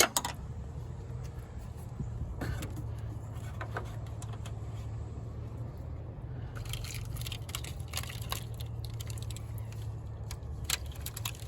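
Light clicks and taps of hand tools and parts being handled in a car's engine bay, coming thick and fast in the second half, over a steady low hum.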